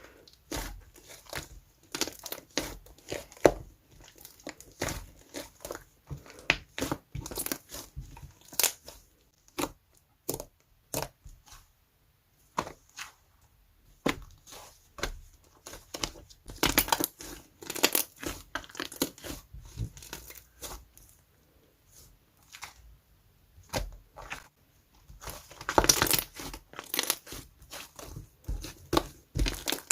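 Sparkly gold slime being squished, pressed and stretched by hand, making dense runs of sharp pops and clicks, with a quieter lull about twelve seconds in.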